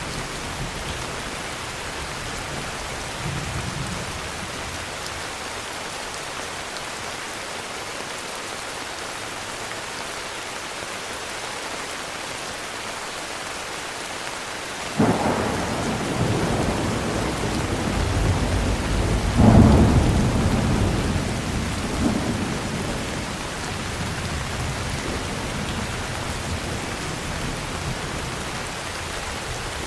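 Steady heavy rain, with a thunderclap breaking in suddenly about halfway through and rolling on as a low rumble that peaks a few seconds later and slowly fades.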